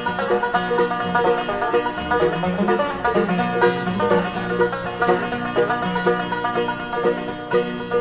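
Bluegrass band playing an instrumental break, with a fast plucked banjo to the fore over guitar and bass.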